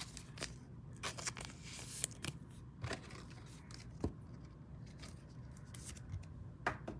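Trading cards being handled and slid against one another: light scrapes and scattered clicks of cardstock, with a sharper click about four seconds in and a couple more near the end.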